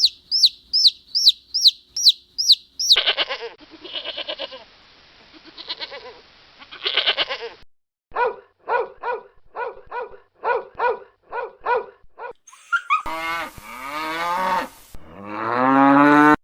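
A run of separate farm-animal call recordings one after another. A fast series of high chirps comes first, then varied calls, then a regular string of short calls at about two and a half a second. Near the end come long bleating calls, the last one rising and the loudest.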